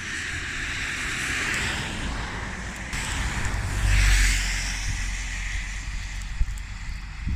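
Storm wind gusting with a rushing noise, and wind buffeting the microphone with a low rumble. The strongest gust comes about four seconds in.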